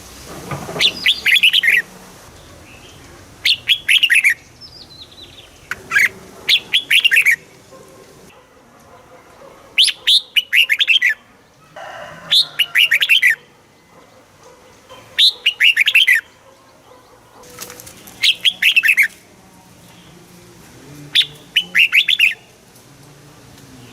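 Red-whiskered bulbul singing: short, bright warbled phrases of a few rapid notes, repeated about every two to three seconds.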